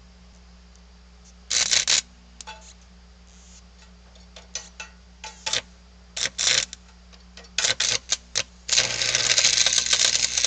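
Electric arc welder crackling as it welds steel gussets: several short tack-like bursts, then a longer continuous bead of about two seconds near the end that stops suddenly. A steady low electrical hum lies underneath.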